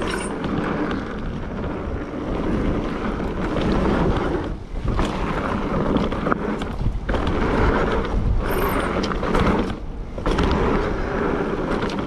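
Mountain bike riding fast down a dirt trail: tyres rolling and rattling over the ground, with wind buffeting the microphone. The noise drops out briefly a few times.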